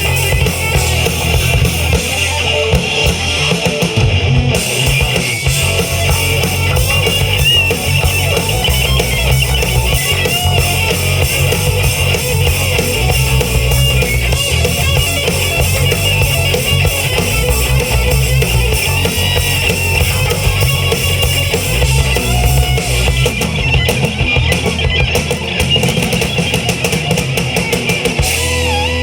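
Rock band playing loudly on drum kit with bass drum, electric guitars and bass guitar.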